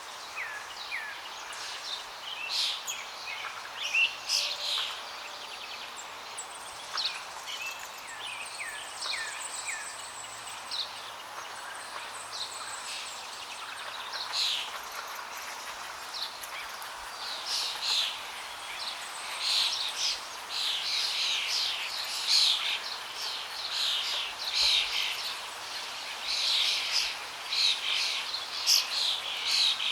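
Many small birds chirping and calling in quick short notes over the steady rush of flowing water; the calls grow denser and louder in the second half.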